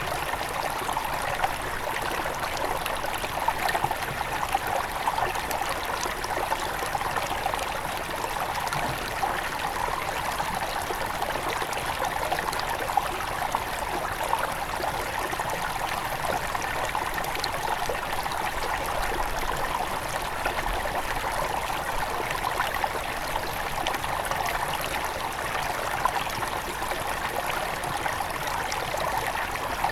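Small headwater forest river flowing steadily, water trickling and splashing over stones in an even, continuous rush.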